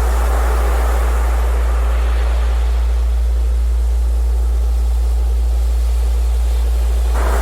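Sea surf washing in slow swells, with a fresh wave surging in near the end, over a steady low hum of a synthesized tone.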